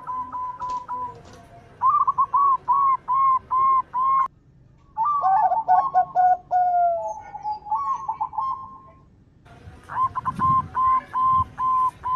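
Zebra doves (perkutut) singing their rapid run of short cooing notes, repeated in several phrases with short breaks; one phrase steps down in pitch. Two faint low thuds come near the end.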